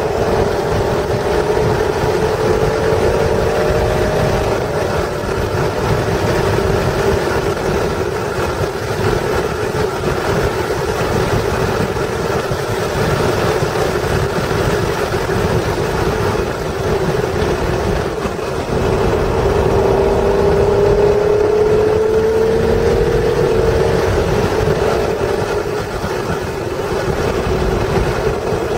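1996 Acura NSX's stock 3.0-litre V6 running hard at track speed, heard from inside the cabin. Its note rises in pitch as the car accelerates, near the start and again about two-thirds of the way through, over heavy wind and tyre noise.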